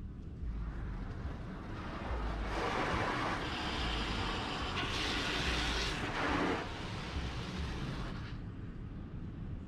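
Automatic car wash equipment: a rushing hiss that swells over the first couple of seconds, is loudest in the middle and fades out near the end, over a steady low rumble.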